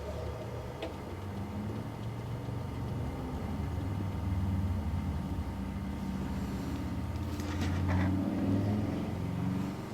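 A low, engine-like rumble that swells about four seconds in and again around eight seconds.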